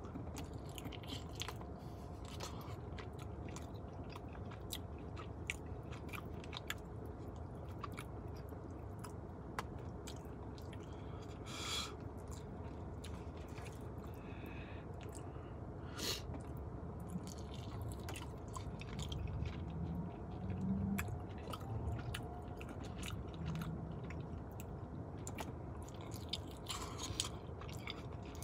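Close-up chewing and biting of sauced chicken wings, with many small mouth clicks and a couple of louder ones about 12 and 16 seconds in.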